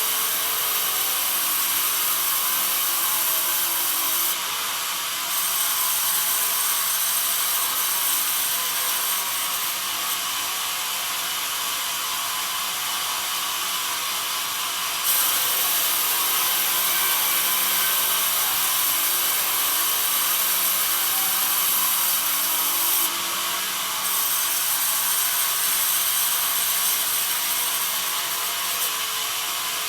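Sawmill bandsaw cutting through pine: a steady, continuous hiss of the blade in the wood. The high part of the hiss drops and comes back a few times.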